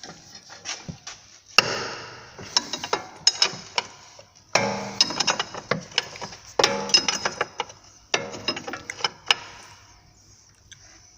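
Metal hand tools working a tight bolt on an Audi A6's front upper control arm: five bursts of sharp metallic clicks and knocks, each about a second long, with short pauses between.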